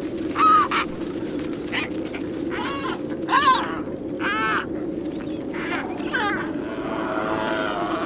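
Birds calling: a string of short, harsh calls from several birds in turn, each rising and falling in pitch, about one or two a second, over a steady low hum. Faint rapid clicking runs under the first few seconds.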